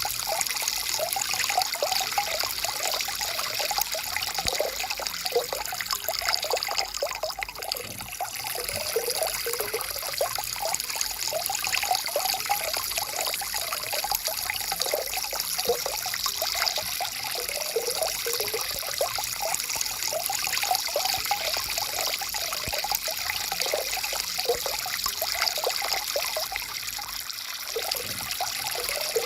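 Small forest stream trickling and babbling over rocks: a steady water noise with many quick gurgles.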